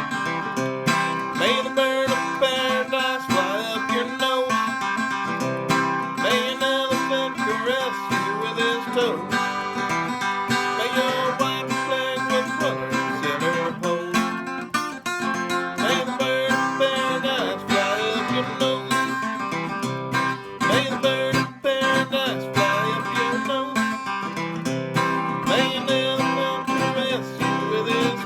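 Acoustic guitar strummed and picked in a country style, with a wavering melody line over it, recorded on a phone.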